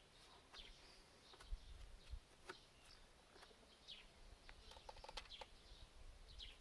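Faint songbirds chirping: scattered short, quick downward chirps, with a brief rapid trill about five seconds in, over near-silent outdoor background.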